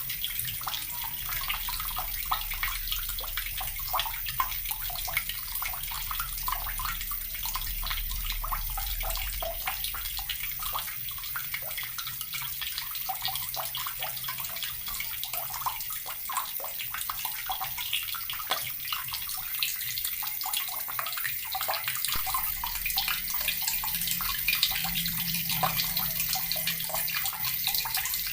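Water running steadily from a tap and splashing, with many small splashes over a continuous hiss.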